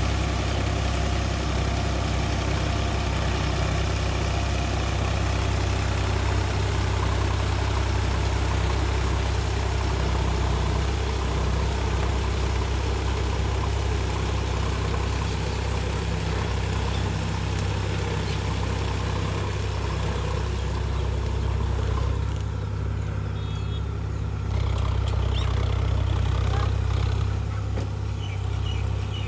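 Sonalika tractor's diesel engine running steadily while puddling a flooded rice paddy, its low note easing off for a couple of seconds about 22 seconds in, then picking up again.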